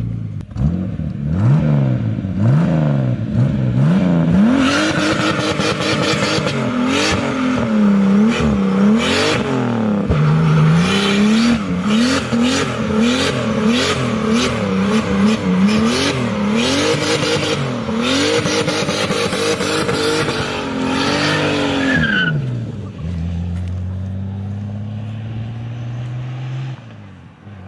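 Big-turbo BMW E28 doing a burnout: the engine revs up and down again and again while the rear tyres spin and squeal. About 22 seconds in the revs drop away to a steadier, lower engine note as the car pulls off.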